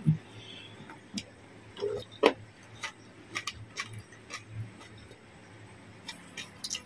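Close-up chewing of a mouthful of lettuce-wrapped raw salmon: irregular wet clicks and crunches, with the loudest crunch a little over two seconds in.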